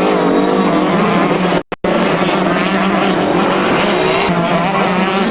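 Motocross bike engines running and revving, their pitch rising and falling. About a second and a half in, the sound drops out for a split second, like a tape cut.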